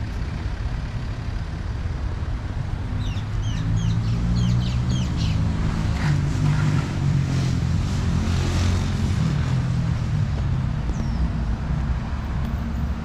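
Street traffic: a motor vehicle's engine running and passing, swelling in the middle and easing off again. Short, high bird chirps come in a quick burst about three to five seconds in, with one more near the end.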